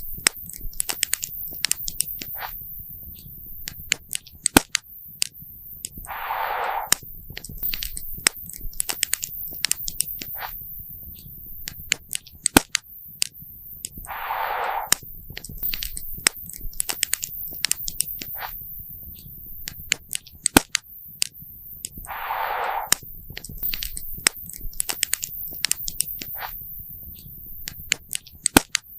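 Wood fire crackling and popping: many sharp, irregular snaps over a low, steady flame noise, with a short hiss returning about every eight seconds.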